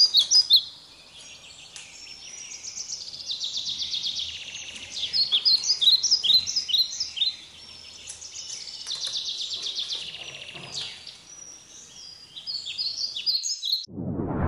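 Songbirds singing: phrases of bright chirps and fast trills with short pauses between them, cutting off suddenly near the end.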